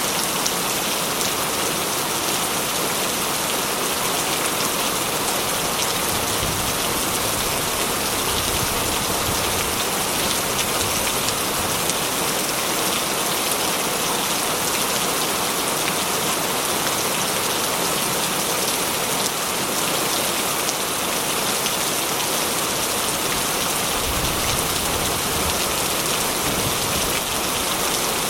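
Steady heavy rain drumming on a corrugated metal roof, a dense even hiss of drops, with a faint low rumble swelling twice.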